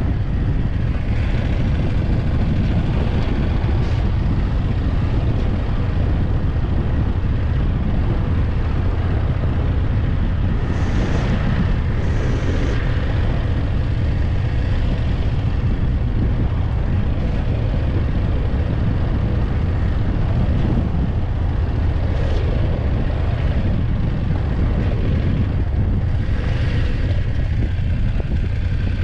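BMW F850GS motorcycle's parallel-twin engine running steadily while riding, mixed with wind and road noise. A few brief hissy rushes come through at intervals.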